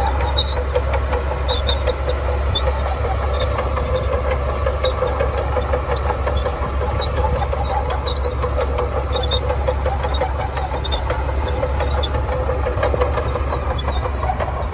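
Heavy diesel engine of a Shantui bulldozer running steadily under load, with a dense, rapid metallic rattle over a deep constant hum.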